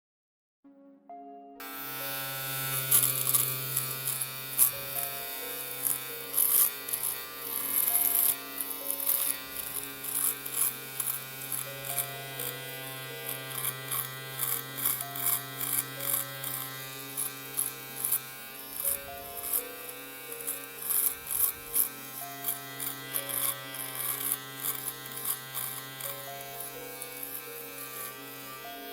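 Electric shaver running with a steady buzzing hum that starts about a second and a half in, broken by frequent short, uneven crackling pulses.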